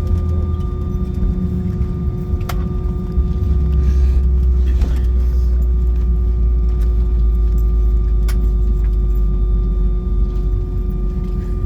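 Steady low rumble and hum inside the cabin of an Airbus A319 taxiing after landing, the rumble deepening about three seconds in, with a couple of faint clicks.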